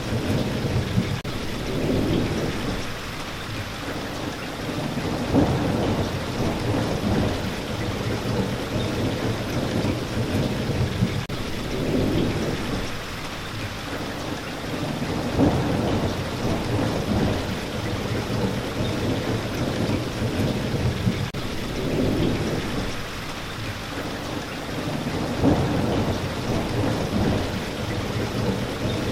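Steady heavy rainfall with low rumbles of thunder that swell and fade every few seconds, in a rain-and-thunder recording played as sleep white noise.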